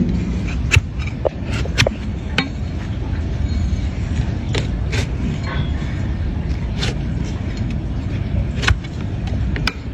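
Sharp clicks and knocks of a tool cutting into a donkey's hoof, about nine at irregular intervals, over a steady low rumble.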